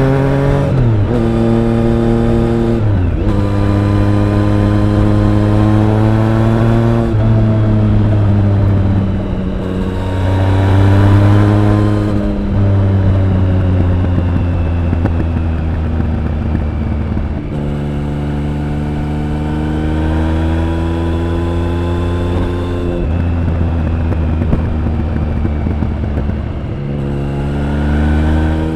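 Triumph Speed Triple 1050's inline three-cylinder engine and exhaust under way, pulling up through the gears with several upshifts in the first dozen seconds. It then holds a steady note before climbing in revs again twice.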